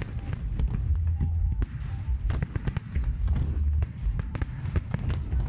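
Aerial fireworks going off: a rapid, irregular string of sharp bangs and crackles over a continuous low rumble of booms.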